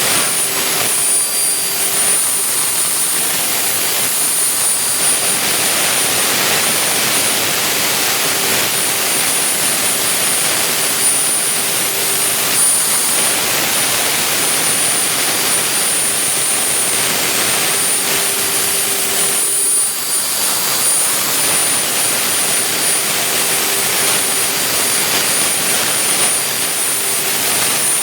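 Vertical 3-axis CNC milling machine running, a loud steady hiss with a high, constant spindle whine and a lower tone that comes and goes.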